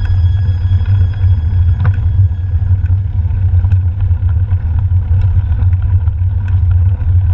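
Steady wind rumble buffeting a camera's microphone on a mountain bike moving along a trail, with scattered light clicks and rattles.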